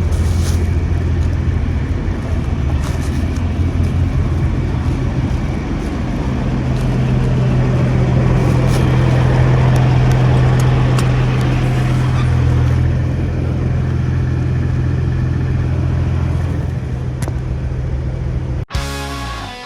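Semi truck's diesel engine running under load as the rig pulls along, a steady low hum whose pitch steps a couple of times. It cuts off suddenly near the end into guitar music.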